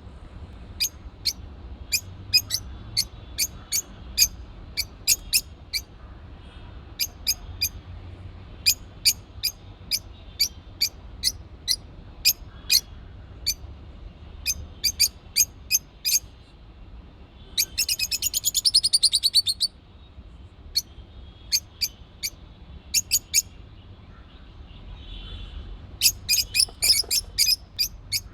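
Pet birds chirping: short, sharp, high chirps in quick runs, with a rapid trill lasting about two seconds roughly two-thirds of the way through.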